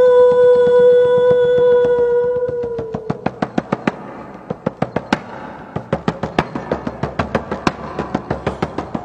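A held, pitched tone that fades out after about three seconds, followed by a quick, even rhythm of light tabla-like drum strokes, about four a second.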